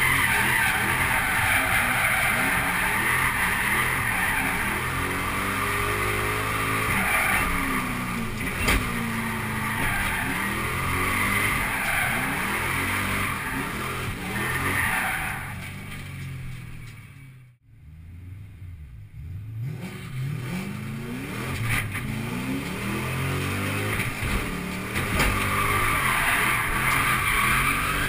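Ford Mustang GT's 4.6-litre V8, heard from inside the cabin, revving up and down again and again through drifts, with the tyres screeching in long stretches. About two-thirds of the way through, the sound briefly fades almost away and then returns.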